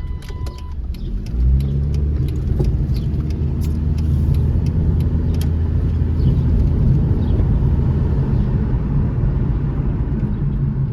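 Car engine starting about a second and a half in, its pitch rising briefly and then settling into a steady low running rumble. A steady warning chime tone stops just before the engine starts.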